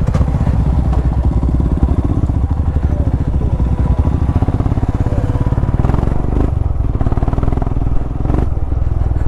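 Motorcycle engine running steadily while being ridden, with a continuous low pulsing beat. A few brief knocks come in the second half.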